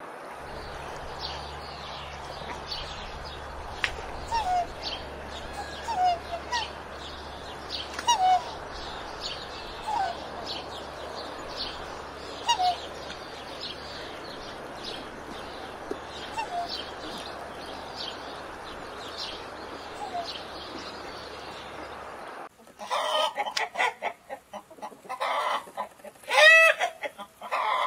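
Chickens clucking: short calls every second or two over a steady low hum. After a cut about 22 seconds in, the clucking becomes louder and denser.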